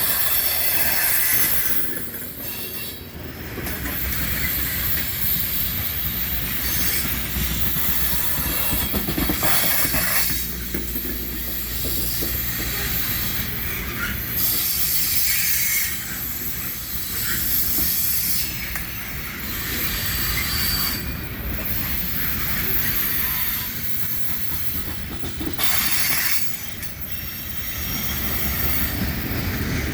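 CSX freight train's cars rolling past, with high-pitched wheel squeal over a steady low rumble; the loudness dips briefly every few seconds as the cars go by.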